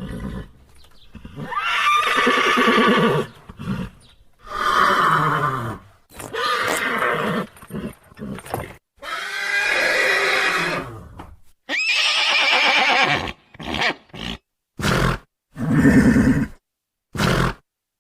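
Horses neighing and whinnying: a series of separate calls, each about a second or two long, with several short snorts or nickers near the end.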